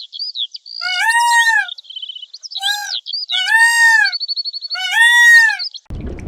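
Animal calls: four arched, mewing calls, each rising and falling, mixed with quick high chirps and two fast trills.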